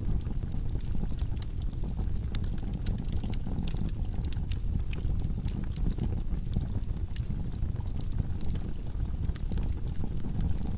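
Wood logs burning in a fireplace: a steady low rumble of flames with frequent sharp crackles and pops.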